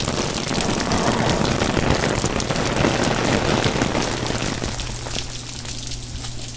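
Steady rain falling and splashing. The rain noise thins out about five seconds in, leaving a low steady hum underneath.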